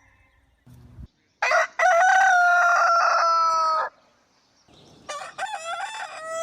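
Rooster crowing: one full crow with a long, slightly falling final note, then a second crow starting near the end.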